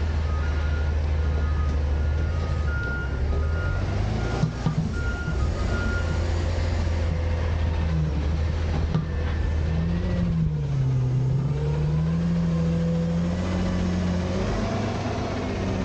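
Autocar garbage truck's diesel engine running, with its reversing alarm beeping steadily for the first six seconds or so. From about eight seconds in, the engine speeds up and eases off a few times.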